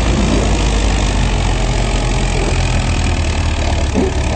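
Farm tractor engine running steadily and loud, with a deep low drone.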